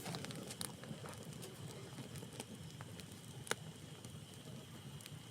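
Wood campfire crackling, with irregular snaps and pops over a soft hiss, and one sharper pop about three and a half seconds in.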